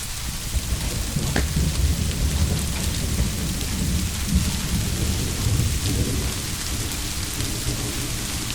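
Steady rain with a long, low roll of thunder rumbling beneath it, easing off after about six seconds.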